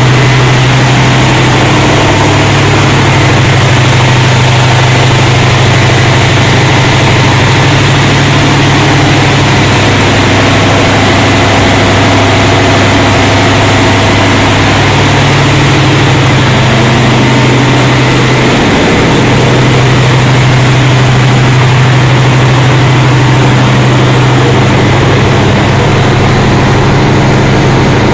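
Diesel machinery in a ship's engine room running steadily: a loud, unbroken drone with a deep hum under a wide hiss.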